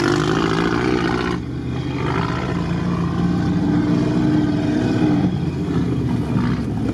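Engine and driving noise of an off-road vehicle heard from inside its cab while it drives, the engine pitch rising and falling.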